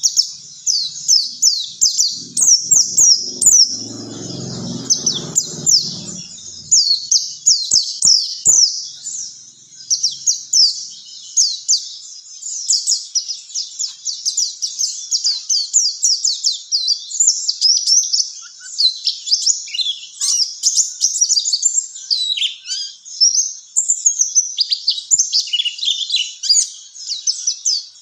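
White-eye (pleci, Zosterops) song: a rapid, unbroken run of high, thin, downslurred chirps and twitters. A low muffled rumble sits under it from about three to six seconds in.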